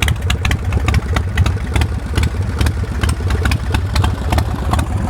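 2003 Swift bar chopper's S&S 113 V-twin engine idling through Vance & Hines exhaust, a steady low rumble with many sharp ticks. It runs evenly, with no missing.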